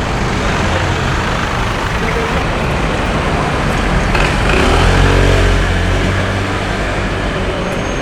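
Steady city street traffic noise. A vehicle engine passes close about halfway through, getting louder, then fading.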